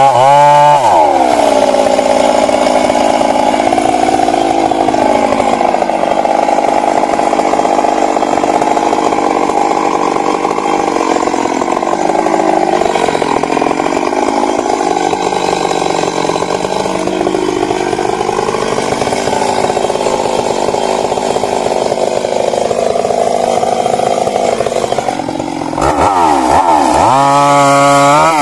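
Stihl MS 382 two-stroke chainsaw running at high revs in a cut, its pitch sagging and recovering as the chain works through the wood. About a second in it goes from fluttering throttle up into the cut, and near the end it drops briefly and is blipped again.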